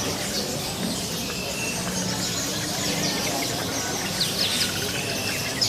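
Many songbirds chirping and twittering at once, a dense scatter of short, quick high notes from many birds, over a steady low background murmur.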